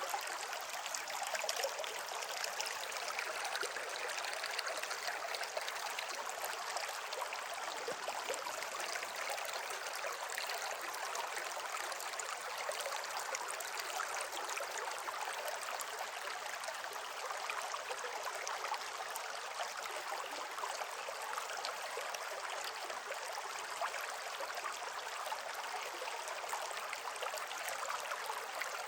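Stream of running water flowing over rocks, a steady rushing babble that does not change.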